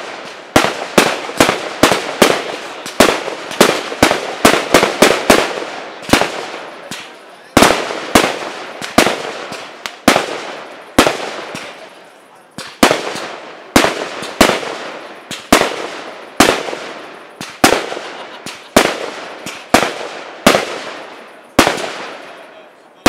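Aerial firework shells bursting in quick succession: sharp bangs, each trailing off into a fading echo. They come two or three a second for the first few seconds, then roughly one every half second to a second.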